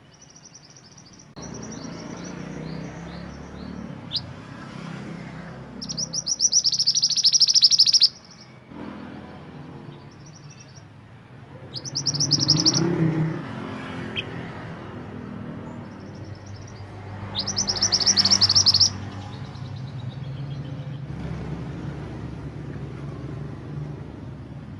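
Mantenan gunung songbird singing: three loud bursts of rapid, high chattering trills, each about two seconds long, with softer calls between them. A steady low background rumble runs underneath.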